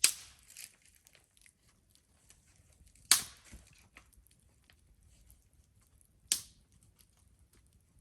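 Wood fire crackling, with three loud sharp pops about three seconds apart and faint small crackles between them.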